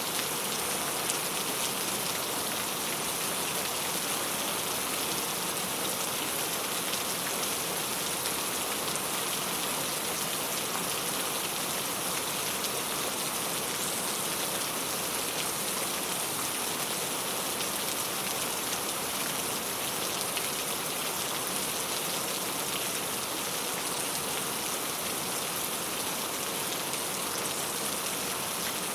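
Steady rain on a clay tile roof: a dense, even wash of drops with fine ticks of individual drops, holding the same intensity throughout.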